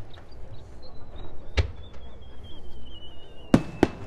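Aerial fireworks exploding: one sharp bang about a second and a half in, then two in quick succession near the end. A thin high whistle slowly falls in pitch underneath.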